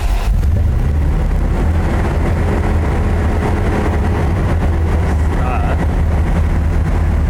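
1982 Corvette's 350 V8 catches and runs with a steady, even rumble.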